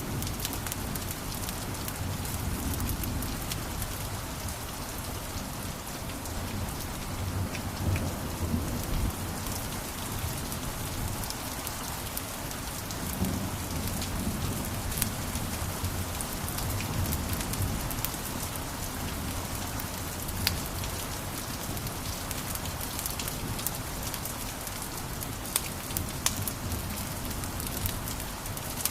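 Wood fire crackling in a fireplace: a steady hiss and low rumble with scattered sharp pops.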